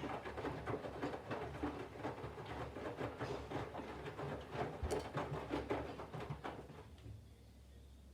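Candy front-loading washing machine's drum tumbling a wet load in the main wash, with water sloshing and laundry dropping. About seven seconds in the drum stops and only a faint low hum remains.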